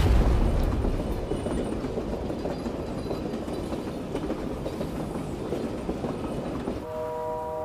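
Train running along the tracks: a steady rumble and clatter of wheels on the rails. A heavy low boom dies away in the first second, and held, bell-like musical tones come in near the end.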